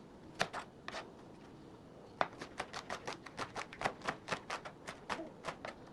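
Kitchen knife slicing a leek on a cutting board, each cut a sharp tap. First a few separate cuts, then from about two seconds in a quick, even run of about five cuts a second.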